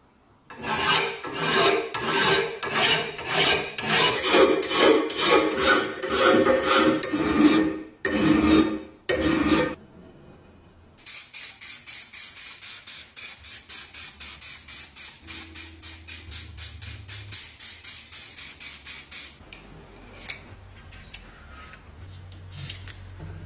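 Abrasive hand strokes scrubbing rust off a rusty hand-cranked grinder, about two strokes a second, then two longer strokes. After a short pause, faster, lighter strokes come about four a second, giving way near the end to quieter, irregular scraping.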